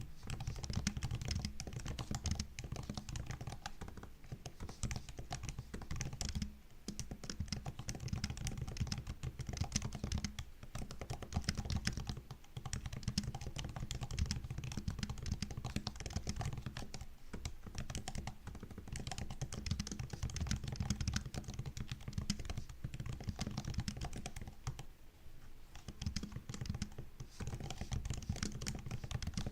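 Fast, continuous typing on a MacBook's low-profile laptop keyboard, a rapid run of soft key clicks with a few brief pauses.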